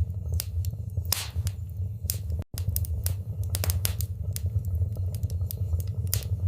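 Fire in a fireplace crackling, with many irregular sharp crackles and pops over a steady low hum. The sound cuts out for an instant about two and a half seconds in.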